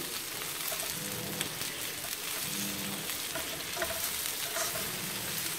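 Duck wing pieces sizzling in a fish-sauce, garlic and chili glaze in a nonstick frying pan, stirred and turned with wooden chopsticks. The sugar in the sauce is colouring the duck as it fries.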